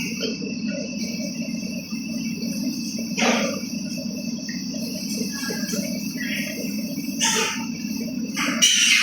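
Insects trilling steadily over a low steady hum, broken by three short louder sounds: about three seconds in, about seven seconds in, and near the end.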